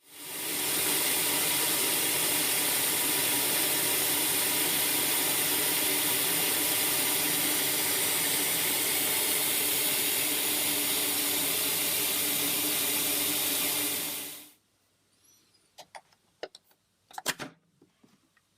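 Yamamoto Electric MB-RC23W household rice polisher running steadily, its motor whirring and the grains churning inside. It shuts off abruptly about fourteen seconds in, followed by a few clicks and knocks.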